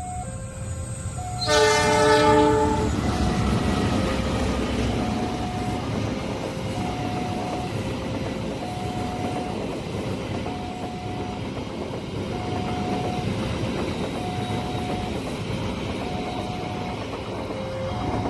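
A level-crossing warning alarm repeats a two-note chime throughout. About a second and a half in, a train blows a short loud horn, then passes with a steady rumble and wheels clattering over the rails.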